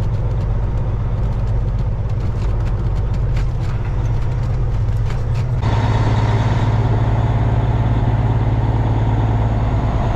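Semi truck's diesel engine running at low speed, a steady low hum with light clicks and rattles over it. About five and a half seconds in the sound suddenly gets louder and fuller.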